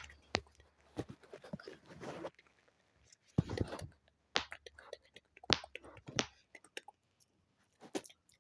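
Close-miked ASMR trigger sounds: irregular wet clicks and pops, with a few sharp, louder clicks scattered through.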